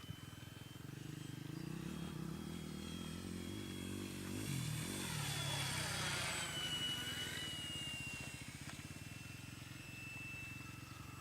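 Cessna 182 single-engine propeller plane passing by, its engine growing louder to a peak midway and then fading, the pitch dropping as it goes past.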